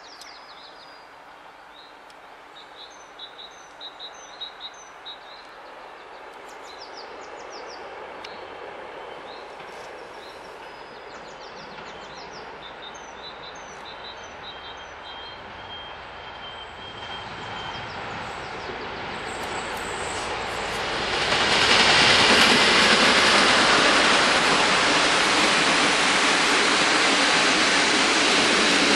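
SU45 diesel locomotive hauling a passenger train, approaching and growing steadily louder, then its coaches rolling past close by with a loud, even rolling noise from about three-quarters of the way in, as the train slows to stop at the station. Birds chirp during the first half.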